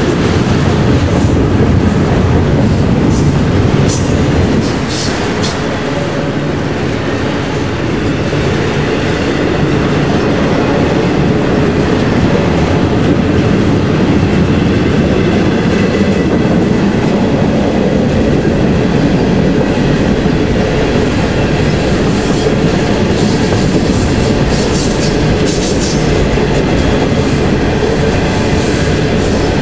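A freight train's cars rolling past at speed: a steady rumble of steel wheels on rail with clickety-clack, and a few brief high-pitched squeals from the wheels twice along the way.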